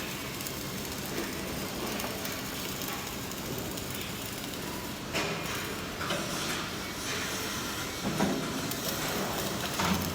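Flux-cored arc welding on stainless steel: the arc gives a steady crackling hiss, with a few short, louder knocks about halfway through and near the end.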